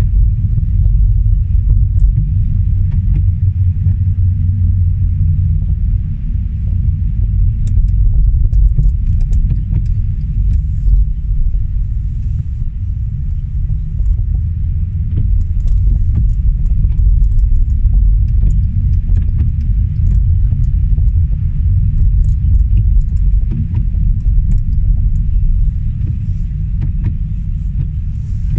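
Car driving on a winter road: a steady low rumble of engine and tyre noise heard from inside the cabin, with scattered light ticks throughout.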